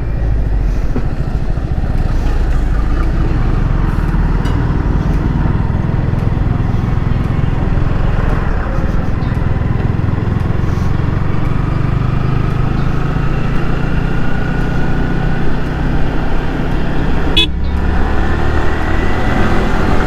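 Yamaha R15 V3's 155 cc single-cylinder engine running steadily while riding through heavy traffic, with vehicle horns honking around it.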